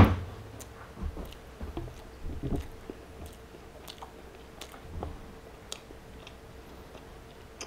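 Close-up chewing and mouth sounds of a man eating a chili cheese dog, soft wet clicks coming every half-second or so. At the very start there is a single sharp knock on the wooden cutting board, the loudest sound.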